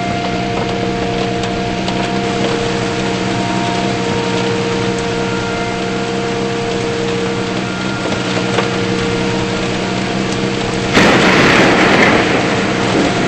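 Vehicle engine and road noise, a steady hum with a noise haze, as heard from a moving car. About eleven seconds in, a louder rush of noise comes in for a couple of seconds.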